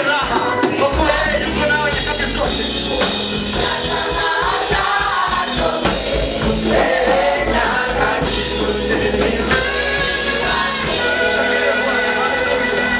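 Gospel praise song: a group of voices singing over a band with sustained bass notes.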